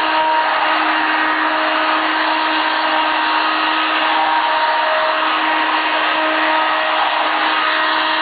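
1988 Hoover Elite 350 vacuum cleaner running steadily: a loud, noisy motor rush with a steady whine held at one pitch.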